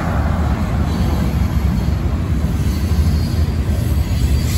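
Freight train of covered hopper cars rolling past: a steady, loud rumble of steel wheels on the rails.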